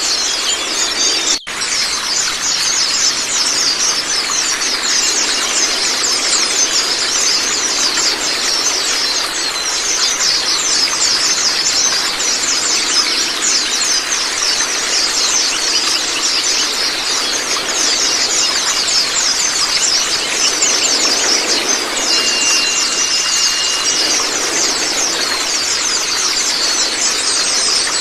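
A flock of white-eyes (Zosterops) chirping and twittering rapidly and continuously in a dense, high-pitched chorus, over a steady rushing water-like noise. The sound drops out for an instant about a second and a half in.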